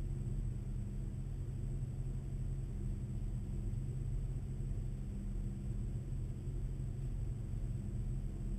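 Nissan GT-R's twin-turbo V6 idling steadily, heard from inside the cabin as a low, even rumble.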